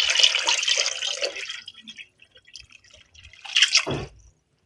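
Water being poured into a pressure cooker pot over raw beef, splashing loudly and then tapering off to drips about two seconds in. A short, louder sound comes about three and a half seconds in.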